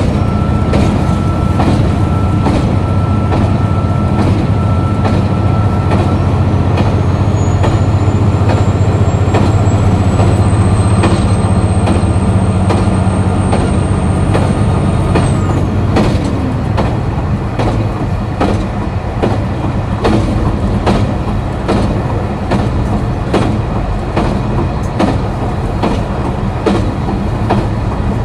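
KiHa 261 series diesel railcar engine running hard under power, with a thin whine climbing steadily in pitch. About 16 seconds in the power comes off and the whine drops away, leaving the engine quieter and the wheels clicking over rail joints.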